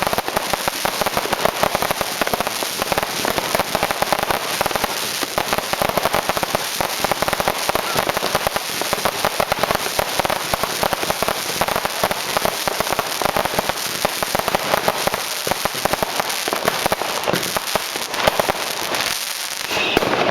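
Dense, continuous crackling and banging of many fireworks and firecrackers going off at once, many sharp cracks a second with no gap, easing slightly near the end.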